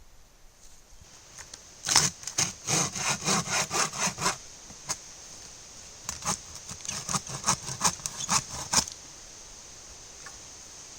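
Hand saw cutting wood in two bouts of quick back-and-forth strokes, about four a second, with a short pause between them.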